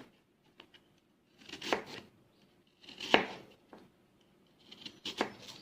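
A knife slicing through peeled Fuji apple quarters: three cuts about a second and a half apart, with a few faint ticks between them.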